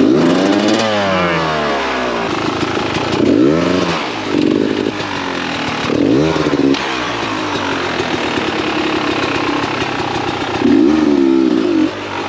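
Two-stroke Beta 300 RR dirt bike engine revved in about four short throttle bursts, each pitch rising and falling, with lower running between.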